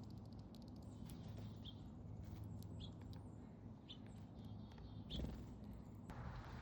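A small songbird at a backyard feeder giving short, high chirps, four of them about a second apart, over a steady low background hum.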